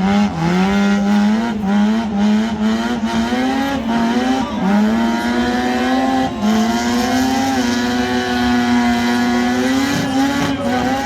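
Car engine held at high revs during a burnout, its pitch wavering up and down, with tyre noise underneath.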